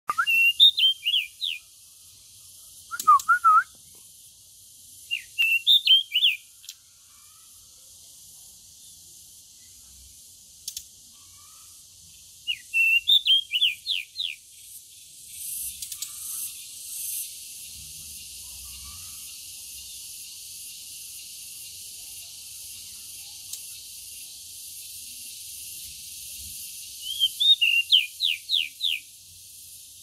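Caged pied bushchats (decu) singing in short phrases of quick, falling high notes, about five bursts a few seconds apart, over a steady high hiss.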